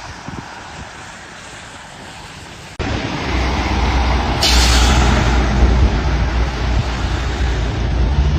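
Road vehicle noise: a steady low hum of traffic that jumps abruptly, about three seconds in, to a much louder low engine rumble, with a short hiss a second and a half later.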